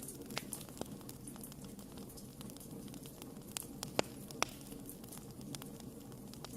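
Wood campfire crackling: scattered sharp pops and snaps over a low steady background, with two louder pops about four seconds in.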